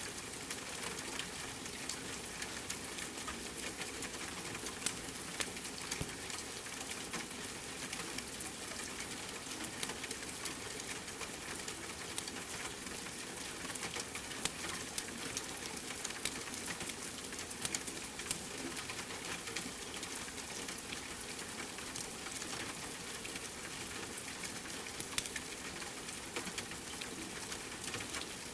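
Steady rain hiss mixed with a crackling wood fire, many small sharp pops scattered irregularly over the even hiss.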